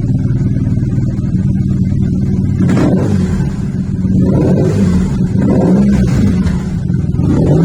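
BMW R1200GS boxer-twin engine running through a GRmoto carbon slip-on can with the baffle removed and a bolt and nut through the hole that had whistled. It idles steadily, then is revved in short blips from about three seconds in.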